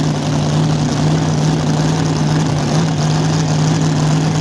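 Mini Rod pulling tractor's engine running loud and steady at high speed, holding one unchanging pitch.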